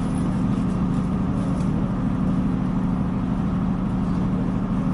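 Steady drone of a Northern Ireland Railways diesel multiple-unit train heard from inside the carriage: a constant low engine hum with train running noise, unchanging throughout.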